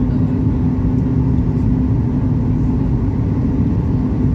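Steady cabin noise inside a Ryanair Boeing 737 MAX 8-200: a constant low rumble with a steady hum running through it.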